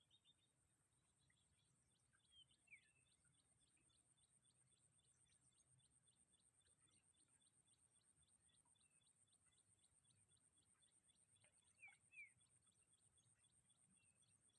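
Near silence with faint outdoor sounds: short falling bird chirps, two near the start and two more near the end, over a steady faint high-pitched ticking at about four a second.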